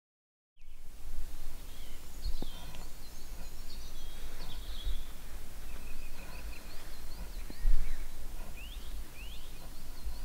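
Wild birds chirping with short high calls and a couple of quick rising notes near the end, over a steady low rumble of outdoor background noise. The sound starts abruptly after a moment of silence, and there are two soft knocks, the louder about three quarters of the way through.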